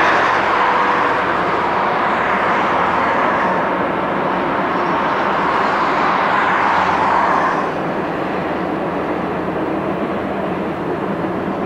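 Train wheels running on the rails: a steady roar of metal on metal. It eases off a little about two thirds of the way through.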